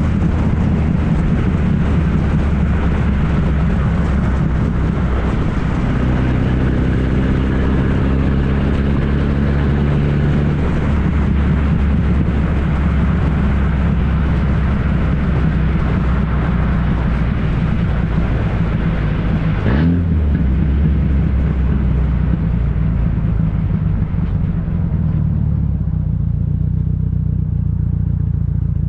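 1994 Ford Ranger's 2.3-litre four-cylinder engine running loud through a straight-piped exhaust, a steady low drone whose pitch shifts a little after about six seconds. A brief sharp sound comes about 20 seconds in, and near the end the higher hiss drops away while the low drone carries on.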